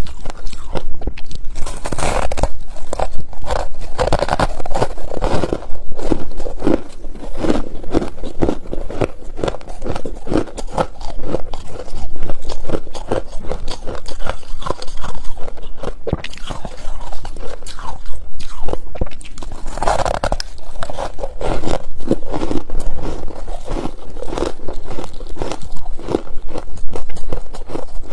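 Close-up crunching and chewing of freezer frost, a fast, continuous run of crisp crunches with heavier bites now and then.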